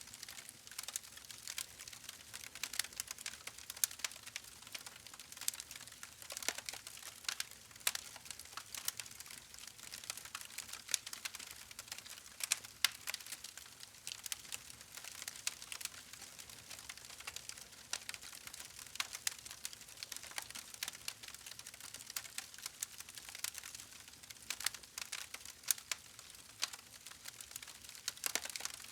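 Wood fire crackling: a steady hiss with many small, irregular pops and snaps.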